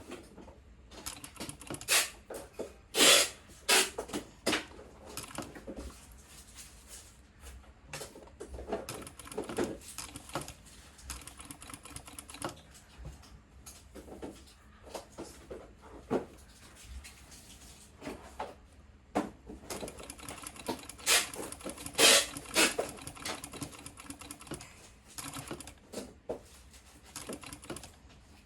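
Sewing machine stitching in stop-start runs of rapid clicking, with a few louder clacks a few seconds in and again past the middle.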